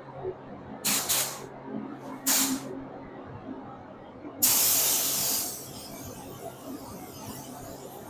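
Paint spray gun hissing in bursts of compressed air: two short ones about a second in, another a little after two seconds, then a longer, louder one a bit past four seconds that trails off.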